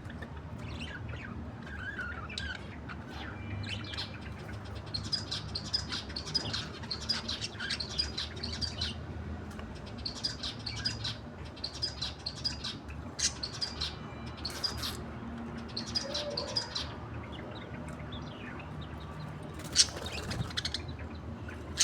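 A pair of budgerigars chirping in runs of quick, high twittering notes, with short pauses between runs. One sharp knock near the end.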